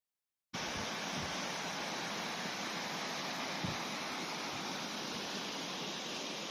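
Steady rush of fast-flowing river water, cutting in abruptly about half a second in, with a few brief low wind buffets on the microphone.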